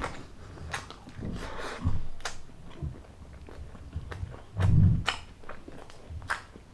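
Close-miked chewing and mouth sounds of a person eating, with a few short sharp clicks scattered through and a louder soft bump a little under five seconds in.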